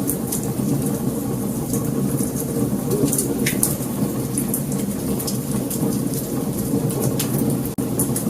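Wood fire burning: a steady low rumble of flames with frequent sharp crackles and pops, one louder snap about three and a half seconds in. The sound drops out for an instant just before the end.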